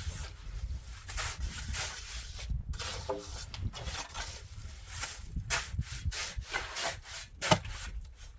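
Repeated rubbing strokes of hand work on wood or building material, about two to three a second and uneven, with one sharper knock near the end.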